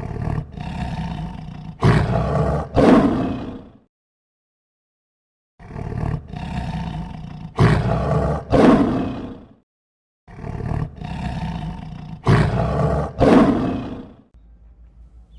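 An animal's loud roaring call, the same recording played three times with brief silent gaps. Each time a rougher lead-in is followed by two louder, deep roars.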